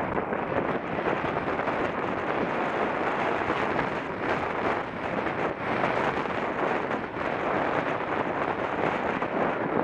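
Wind rushing over a bike-mounted action camera's microphone while cycling: a steady, fluctuating rush of noise.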